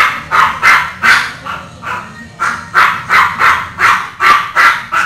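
A dog barking over and over in quick succession, about three barks a second.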